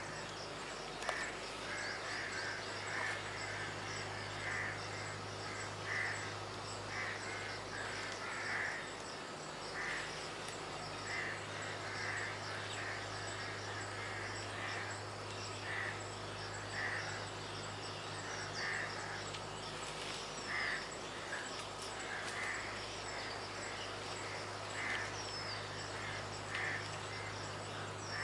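Birds calling in the trees: a short call repeated about once a second, with a few thin high whistles, over a steady low hum.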